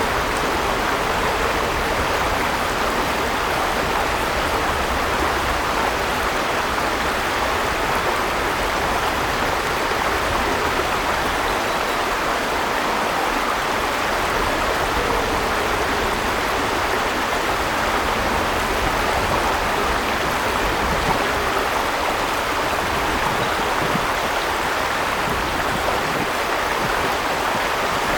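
River water flowing over rocks, a steady even rush with no breaks.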